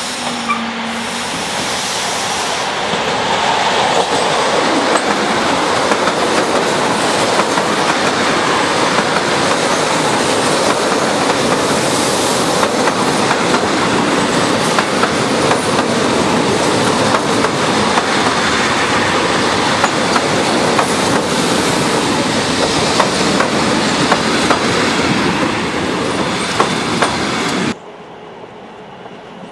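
Electric passenger train passing close by at speed, a loud rushing rumble with wheels clicking over the rail joints. It builds over the first few seconds, then cuts off abruptly near the end to a much quieter background.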